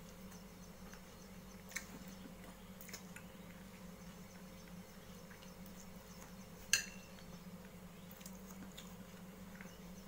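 A man eating rice and fish by hand: faint chewing and small mouth clicks over a steady low hum, with one sharp click and a brief ring about seven seconds in.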